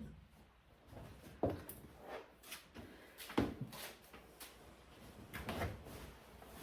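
Cat litter being scooped from a litter box: the scooper digging and scraping through the litter, with a series of separate short knocks and scrapes.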